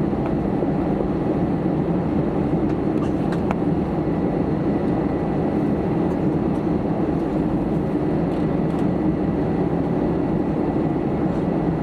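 Steady hum and rush of an Airbus A320's cabin on the ground after landing, with a few faint clicks.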